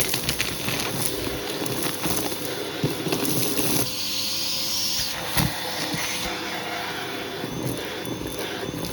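Hoover vacuum cleaner running steadily, its hose tool working over a shag rug with a constant hum, rustling and small clicks. About four seconds in, the suction briefly changes to a higher hiss for about a second.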